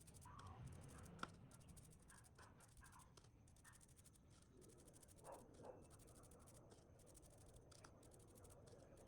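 Near silence, with faint scratching and a few light clicks and knocks, one sharp click about a second in and two soft knocks past the middle.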